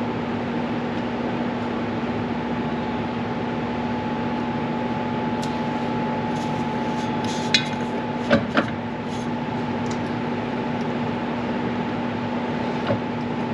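A steady machine hum with two held tones, one low and one higher, and a few short metallic clinks of hand tools about halfway through.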